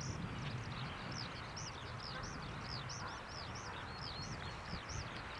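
Small birds chirping over and over, short high arched notes several times a second, over a steady low rumble.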